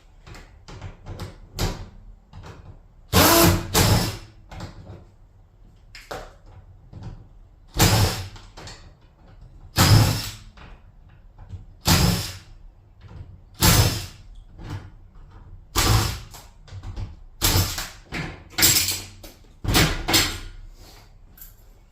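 Garage door parts being worked on during removal: a series of loud knocks and bangs, roughly one every two seconds.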